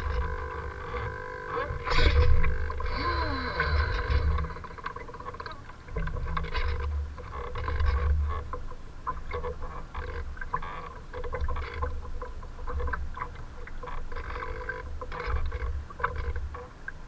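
Strong wind buffeting the microphone in gusty low rumbles, with choppy water splashing and a faint steady hum underneath.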